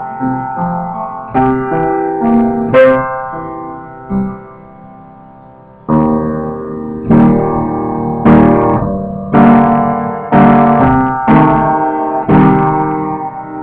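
Solo piano playing a run of notes and chords, picked up with a distorted, guitar-like tone. The playing dies away about four seconds in, then starts again about six seconds in with louder chords.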